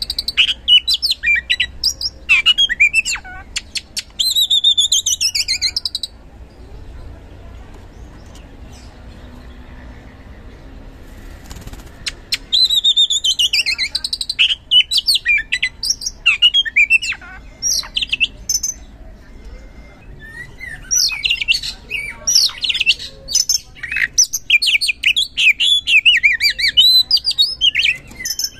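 Oriental magpie-robin (kacer) singing loudly: bursts of clear whistled phrases that slide down in pitch, mixed with quick trills. The song breaks off about six seconds in, falls silent for about six seconds, then resumes with dense, rapid phrases.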